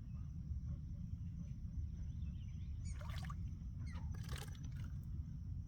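Two short water splashes, about a second apart, near the middle, over a steady low rumble.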